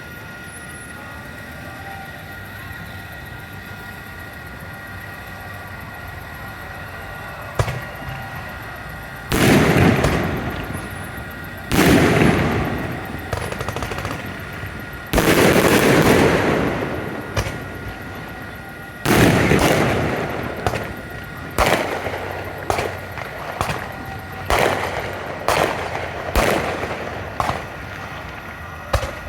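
Fireworks shells bursting overhead. A sharp bang comes about a quarter of the way in, then four loud booms a few seconds apart, each with a long fading tail. Near the end comes a quicker run of sharper bangs, about one a second.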